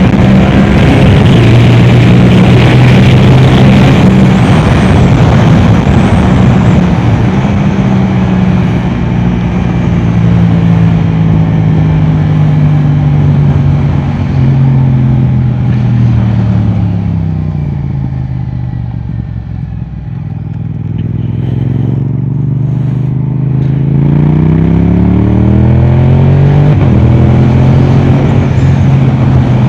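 Yamaha R7's parallel-twin engine through an Akrapovic exhaust, ridden hard on track. It holds high revs, then its pitch falls over several seconds to its lowest about two-thirds of the way through as the bike slows, and climbs again as it accelerates.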